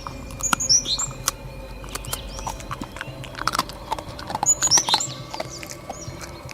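African wild dogs giving short, high-pitched chirping twitters in two bursts while the pack scuffles over a freshly downed young wildebeest, amid irregular clicks and knocks.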